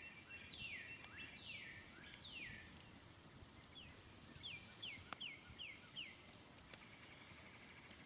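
A bird calling: a few downward-slurred whistles in the first three seconds, then a quick run of five short falling notes around the middle. A few faint crackles come from a smoldering campfire.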